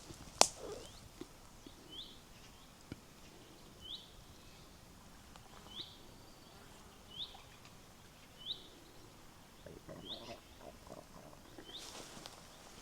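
A bird repeating a single short, sharp rising call about every second and a half. A sharp click about half a second in, and soft footsteps on the path near the end.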